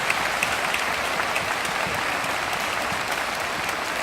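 A large congregation applauding steadily after a speech ends.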